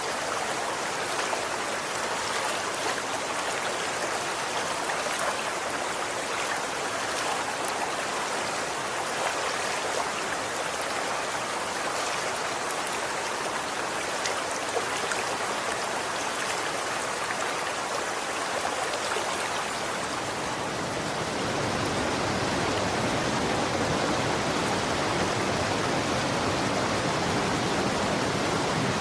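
Running water rushing steadily, with fine splashing detail; about two-thirds of the way through it changes to a fuller, deeper and slightly louder rush.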